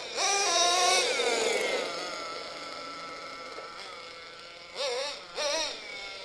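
Nitro RC monster truck's small .21 nitro engine revving hard, its pitch stepping as the two-speed gearbox shifts, then falling away as the truck slows and settles to a lower, quieter running. Two short throttle blips near the end.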